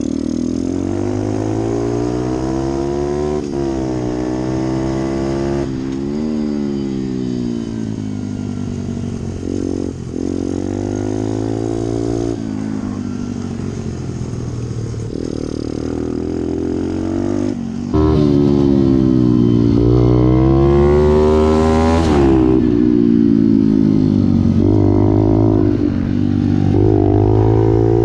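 A pit bike's small single-cylinder four-stroke engine revving up and dropping back over and over as the bike accelerates, changes gear and slows for corners. It gets louder about two-thirds of the way through.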